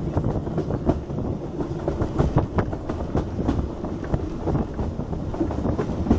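Heritage railway carriage running along the line at speed, heard from a carriage window: a steady rumble with the wheels clattering and knocking on the track.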